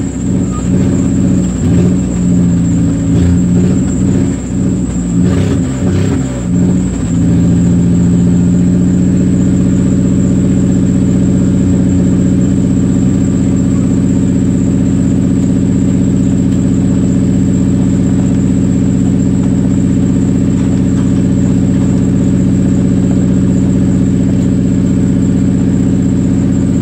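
Off-road 4x4's engine heard from inside the cab, running at uneven revs for the first several seconds, then held at a steady, constant speed for the rest.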